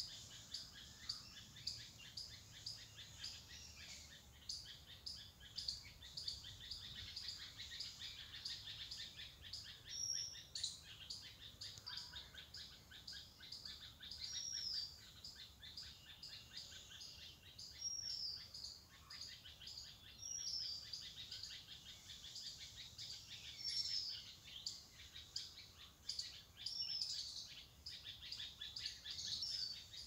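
Small birds chirping and twittering continuously, with one bird repeating a short high whistled note about every three seconds from a third of the way in.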